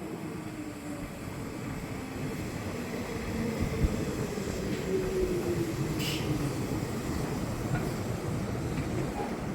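Nishitetsu electric commuter train running by on the line, its rumble growing steadily louder, with a faint humming tone that dips slightly in pitch partway through.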